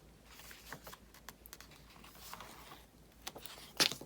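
Light taps, clicks and soft paper rustling from hands handling planner paper, tape and a craft knife on a desk, with one sharper click near the end.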